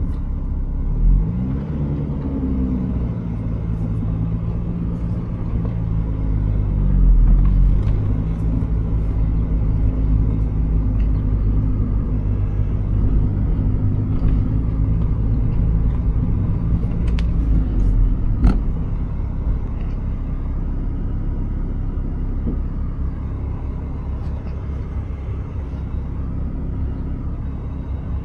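Turbocharged Mazda Miata's four-cylinder engine accelerating through the gears: the pitch rises, dips at shifts, then holds a steady pull. About two-thirds through it cuts off with a click, leaving a low road rumble as the car coasts.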